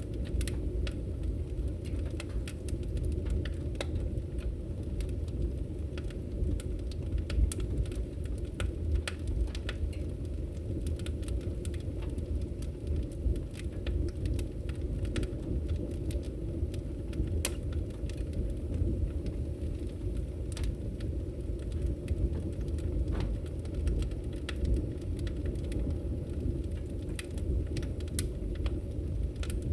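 Log fire burning in a fireplace: a steady low rush of flame with frequent, irregular sharp crackles and pops from the burning logs.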